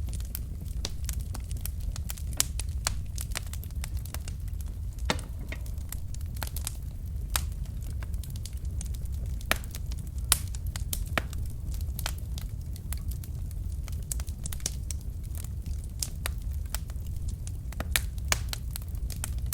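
Wood fire of burning logs crackling, with sharp irregular pops and snaps over a steady low rumble of the flames.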